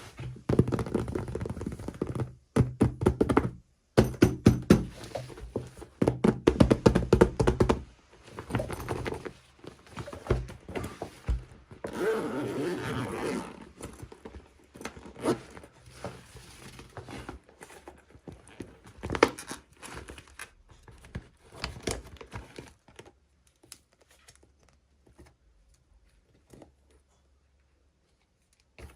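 Small plastic toy pieces and packaging being handled: a busy run of clicks, knocks and rustling that thins out to scattered taps in the second half and dies away near the end.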